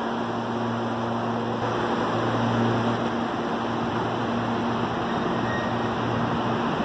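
CPTM electric commuter train running at the platform: a steady low hum with a second, higher tone over an even hiss.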